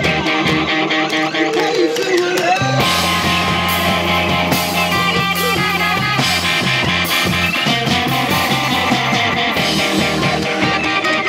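Rock band playing live, an instrumental passage with guitar over bass and drums; the bass line shifts to a new note about three seconds in.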